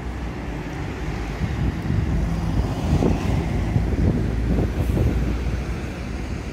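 Road traffic passing on a town street, a vehicle swelling past in the middle, with wind buffeting the microphone.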